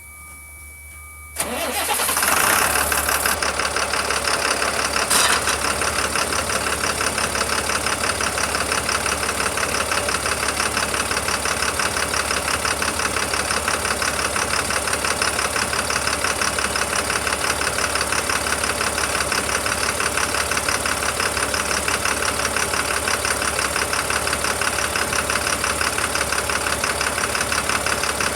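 Caterpillar 3116 inline-six diesel engine starting about a second and a half in, then idling steadily with an even, rapid rhythm. A brief sharp noise comes about five seconds in.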